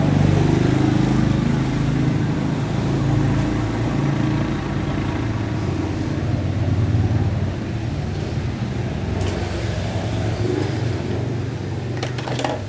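An engine running steadily, with a few sharp clicks near the end.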